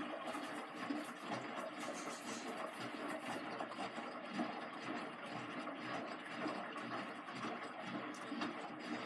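Hotpoint HE8L493 washing machine running steadily partway through its Fastwash Eco cycle: an even motor and drum noise.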